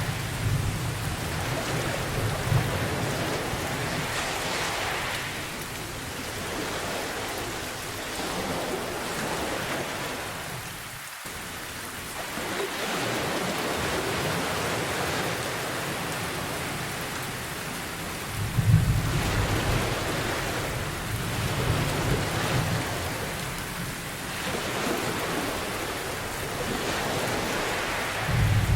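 Steady rain with low rolling thunder, swelling at the start, again about two-thirds of the way in, and once more near the end.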